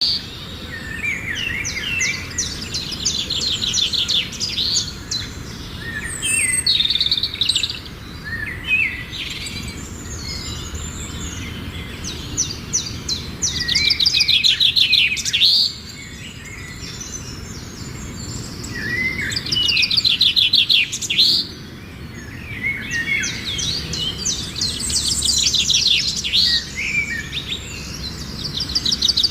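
Birds singing: high-pitched chirps and rapid trills in repeated phrases a second or two long, with short pauses between them.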